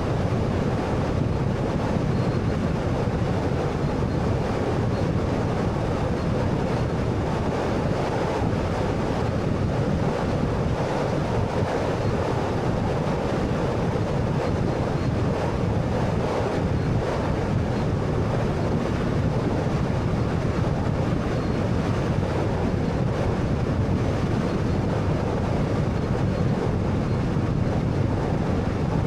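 Steady road and tyre noise from a 2013 Honda Fit (1.3-litre) on the move, holding even throughout with no distinct events.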